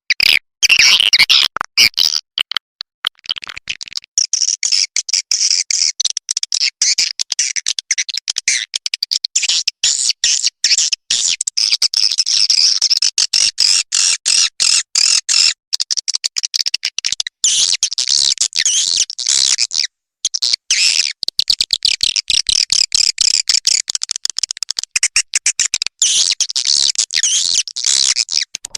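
Recorded edible-nest swiftlet calls: a dense, rapid, high chattering of chirps and clicks, with brief breaks about 3 seconds in and about 20 seconds in. This is the kind of lure call played at swiftlet nest houses to attract and roost the birds.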